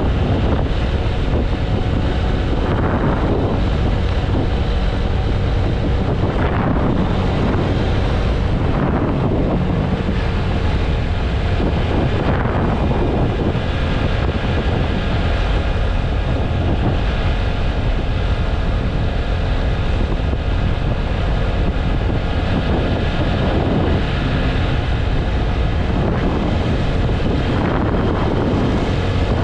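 Wind rushing over the microphone of a TVS Apache RTR 160 4V motorcycle at highway speed, with its single-cylinder engine and the road running underneath in a steady loud roar. A few brief swooshes swell and fade within it.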